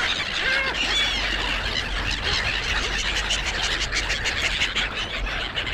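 A flock of gulls calling and squealing together in a dense chatter while squabbling over food, with a few separate short calls that rise and fall in pitch in the first second or so.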